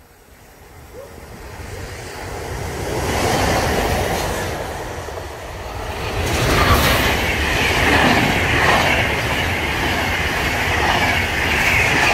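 Electric locomotive hauling a single passenger coach approaching and passing close by, the rumble and clatter of wheels on rails building up and loudest from about six seconds in.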